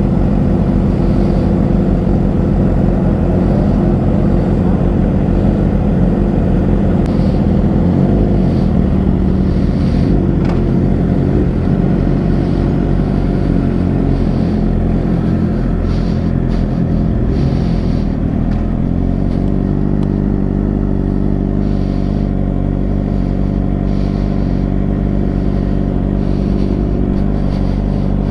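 Suzuki GSX-R 600 inline-four engine running as the sportbike is ridden. The engine note shifts about a quarter of the way in and again past the middle.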